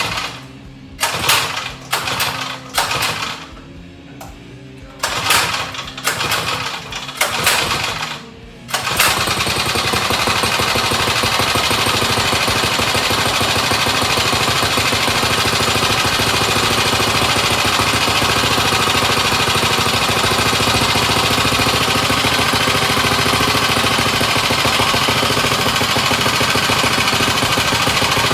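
Harbor Freight 79cc single-cylinder four-stroke engine on a mini bike being pull-started: about half a dozen short bursts of pulling and sputtering as it fails to keep running, then it catches about nine seconds in and runs steadily with a smooth purr.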